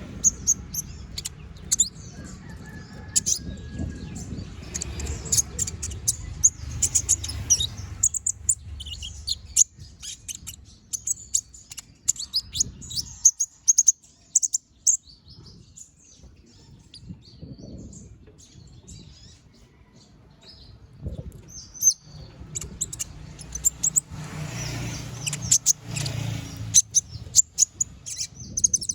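Konin (kolibri ninja) sunbird singing a fast, busy song of sharp, high-pitched chirps and clicking notes with short trills. The song thins out in the middle and grows dense again near the end. A low rumble sits underneath at the start and again near the end.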